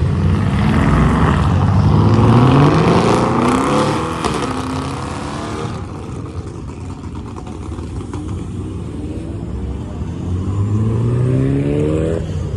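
Car engine accelerating hard, its pitch climbing steadily and loudest about two to three seconds in; after a quieter lull, an engine revs up again, rising in pitch toward the end.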